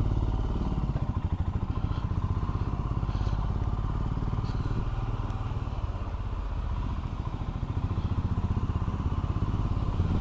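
Royal Enfield Himalayan's single-cylinder engine running as the motorcycle pulls away and rides on, with a steady rapid pulsing beat that swells a little partway through.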